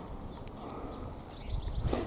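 Outdoor ambience: a steady low rumble with a few faint, high, brief bird chirps, and a louder rustling noise near the end.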